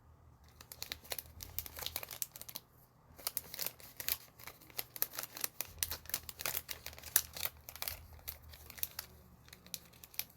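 Foil trading-card booster pack wrapper being handled and torn open, crinkling in sharp, irregular crackles with a short pause about three seconds in.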